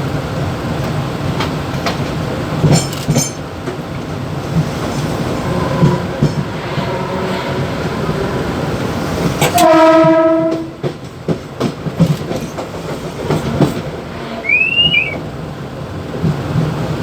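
Mumbai suburban EMU local train running, heard from the driver's cab, with a steady rumble, rattling and clicks from the rails. About halfway through, a train horn sounds one loud blast of about a second.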